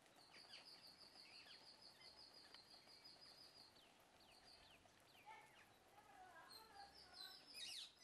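Faint bird calls: a rapid run of high, evenly repeated chirps lasting about three and a half seconds, then scattered chirps and short downward-sliding calls, with a louder burst of calls near the end.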